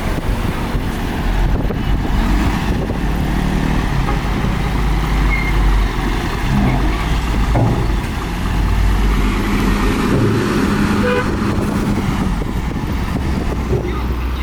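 Heavy diesel earthmoving machinery running, a loud, steady, deep engine rumble.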